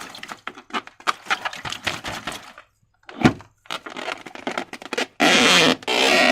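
Slime being squeezed and worked by hand: wet crackling and small clicks, a sharp pop about three seconds in, and a louder squelch for the last second or so.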